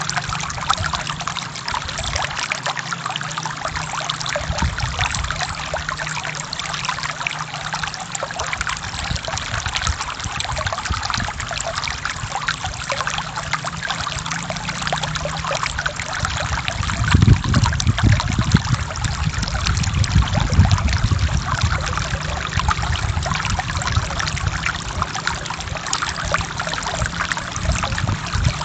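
Forest stream flowing over rocks: steady splashing and trickling, with a few seconds of deeper, louder gurgling a little past the middle.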